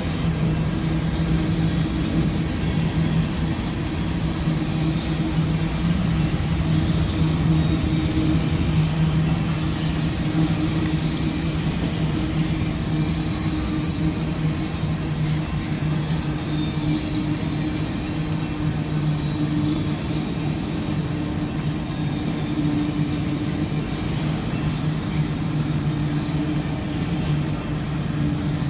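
Freight train of boxcars rolling past: a steady rumble of steel wheels on the rails with a constant low hum underneath.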